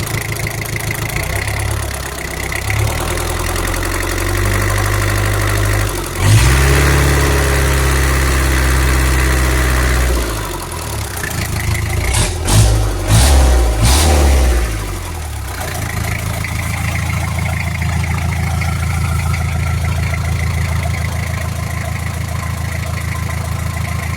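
Isuzu 4BE2 four-cylinder diesel engine on a test run, idling, then revved up for a few seconds and blipped sharply several times before settling back to a steady idle.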